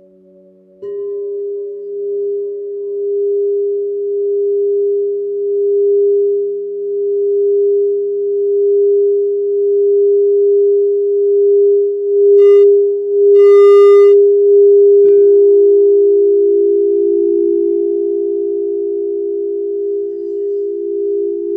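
Crystal singing bowls sounding a sustained pure tone that starts about a second in and slowly swells and eases. Two short bright ringing strikes come around the middle. A second, slightly lower bowl tone joins soon after and sounds together with the first.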